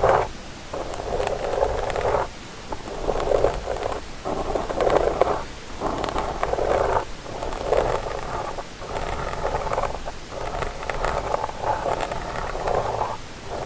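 Ear-cleaning tool scraping and rubbing inside the ear of a binaural microphone in repeated scratchy strokes, about one a second, each separated by a brief pause.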